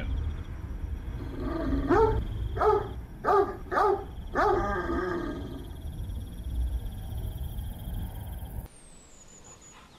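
Cartoon Great Dane's voice: a run of about five short bark-like calls, each rising and falling in pitch, between about one and a half and five seconds in, over a low steady rumble that cuts off abruptly near the end.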